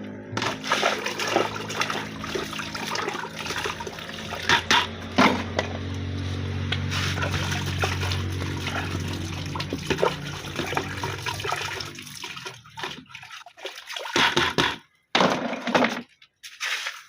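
Water splashing and pouring as cooking pots (sufurias) are washed and rinsed, with scattered clinks and knocks, over a steady low hum that stops about twelve seconds in; after that only short separate bursts of noise.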